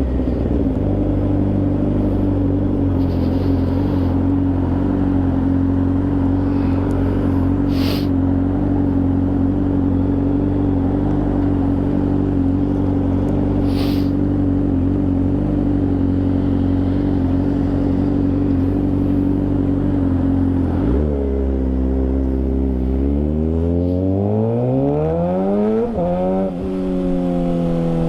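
Suzuki GSX-R600 sport bike's inline-four engine running at a steady cruising note. About 21 seconds in the note drops, then the engine pulls with a rising pitch and changes up a gear near the end. Two brief ticks sound about 8 and 14 seconds in.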